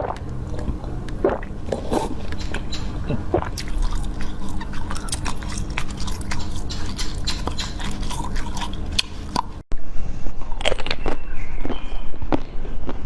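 Close-miked eating: a mouth biting and chewing jelly and frozen treats, with many short sharp clicks and smacks. The recording cuts about ten seconds in to another stretch of the same kind of chewing.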